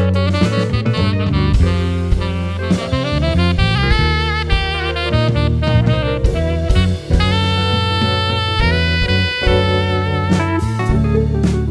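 A funk band plays an instrumental break: a lead melody line of moving and held notes over bass and drums.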